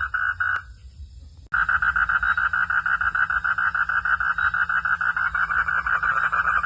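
Night chorus of frogs calling with a rapid, pulsing trill. It cuts off with a click about half a second in and comes back abruptly a second later, faster and denser, as at a splice in the recording.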